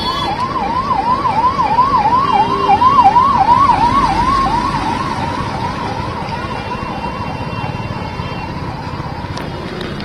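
Emergency vehicle siren in a fast up-and-down yelp, about three sweeps a second, loudest about three seconds in and then fading, over steady background noise.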